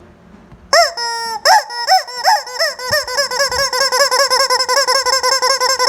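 A noise-making toy chicken squawking loudly, starting about a second in. First come a few separate swooping squawks, then a fast, unbroken warbling squeal of about six swoops a second.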